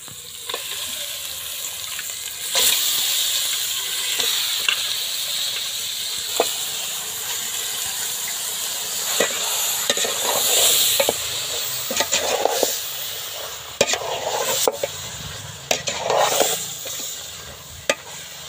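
Country-chicken pieces sizzling in hot oil with fried onions and tomatoes as they are stirred in a metal pot, the sizzle growing louder about two and a half seconds in. A metal ladle clicks and scrapes against the pot now and then.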